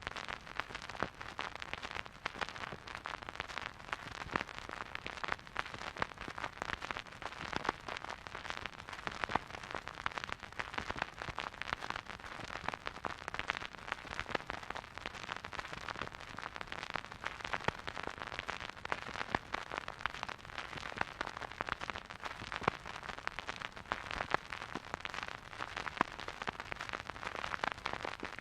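Surface noise of a vinyl record played in a silent groove: a dense, irregular crackle of clicks and pops over a steady hiss.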